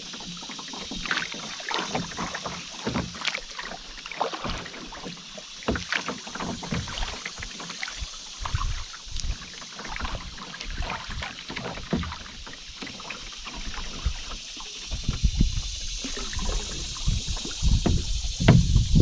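Canoe paddling on a river: the paddle dips and splashes, and water drips and laps against the hull in many small irregular splashes over a steady high hiss. A low rumble comes in over the last few seconds.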